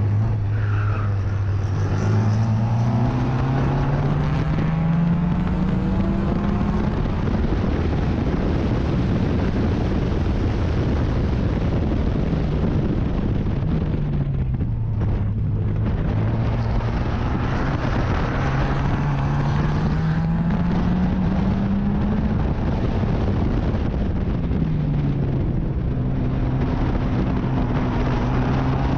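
Racing car engine at full race pace. Its pitch climbs steadily as the car accelerates, drops back about halfway through and again a few seconds before the end as it slows for corners, then climbs again.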